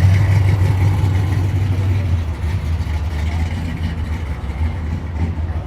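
A car's engine and exhaust rumbling deeply, fading gradually as it moves off.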